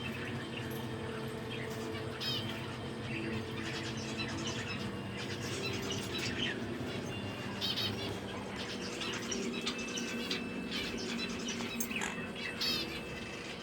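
Pet birds chirping, with short quick chirps scattered through, over a steady low hum.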